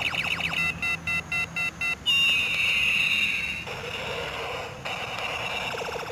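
A quick run of about six electronic beeps, then a loud whistle-like tone sliding downward, set against a fast clicking rattle that stops for the beeps and returns near the end.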